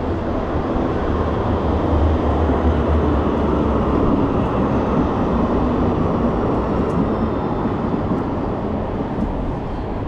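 Steady rumble of a tram running on its rails, heaviest in the first half, with a faint high whine near the middle.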